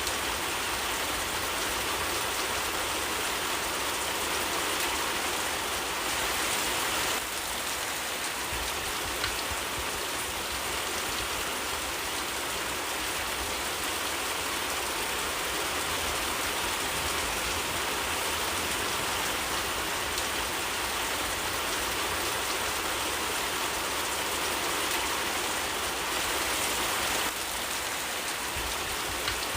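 Steady, heavy rain falling, an even dense hiss of drops on surfaces that holds level throughout.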